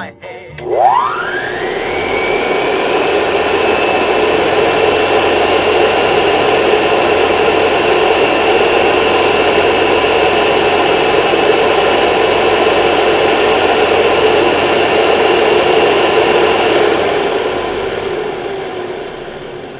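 Hoover Model 700 upright vacuum cleaner switched on: its motor whines up to speed within about two seconds and runs steadily with a loud whir. Near the end it is switched off and winds down.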